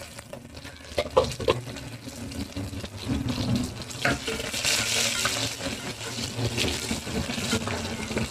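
Shallots sizzling in hot coconut oil in a pressure cooker pot as they are stirred with a wooden spatula. A few knocks of the spatula against the pot come in the first half, and the hiss grows louder a little past halfway.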